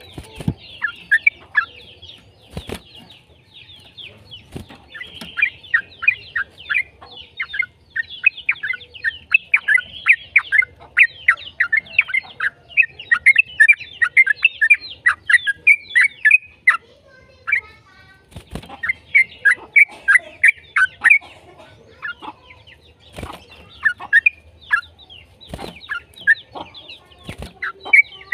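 Yellow-vented bulbul (trucukan) singing in long, rapid runs of short chattering notes, with a couple of brief pauses. A few sharp clicks break in.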